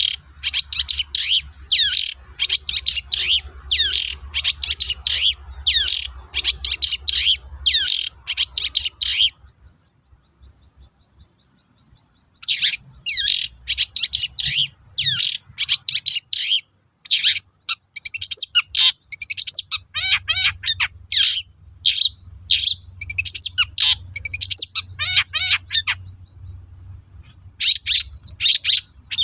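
Long-tailed shrike singing a rapid, chattering song of sharp high notes and quick downward-sweeping whistles. It stops for about three seconds roughly a third of the way in, then resumes, with a shorter break near the end.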